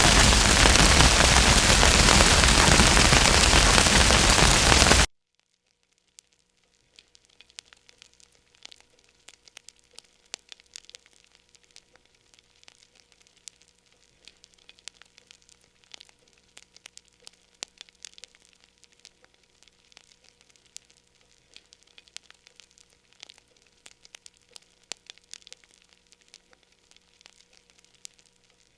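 Wood fire crackling in a fireplace: for about five seconds a loud, dense hiss of crackle that cuts off suddenly, then after a second of silence a much quieter fire with scattered small pops and crackles.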